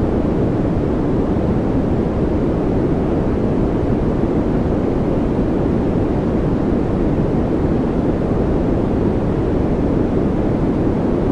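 Continuous noise track sold as white noise: a deep, even rush with no variation, strongest in the low range and with little hiss on top.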